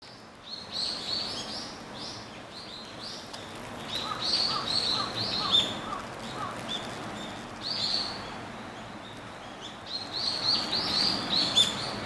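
Small birds chirping in quick series of short, high repeated notes, in several bouts.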